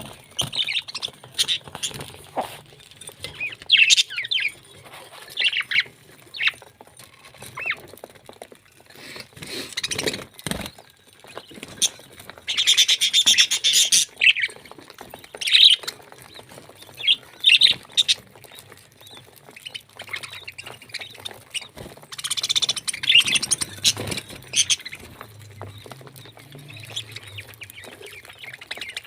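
A parrot calling in short, irregular chirps and squawks, with two longer harsh screeches, one about midway and one later on, and scattered clicks in between.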